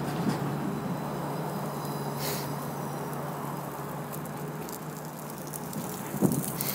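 Steady outdoor street ambience: a constant low hum under an even noise, with a short hiss about two seconds in.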